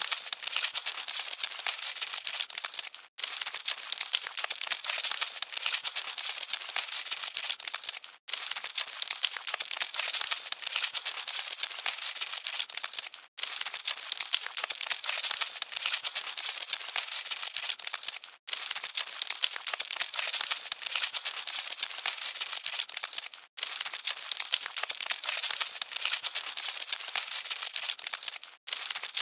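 Dense, steady crackling and rustling of cockroaches scuttling, like a mass of tiny clicks, dropping out for an instant about every five seconds.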